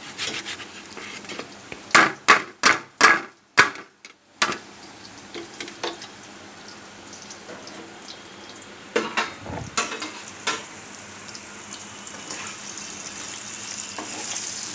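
Potato pieces sizzling as they fry in hot oil in a pan, with stirring. About two seconds in come five loud knocks in quick succession, and a few more utensil clatters follow later on.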